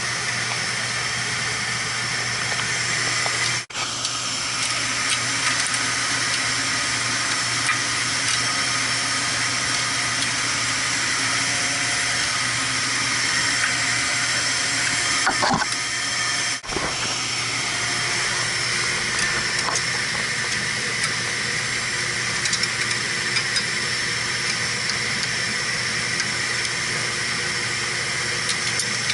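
Steady machinery noise: a continuous hiss over a low electrical hum, briefly cutting out twice.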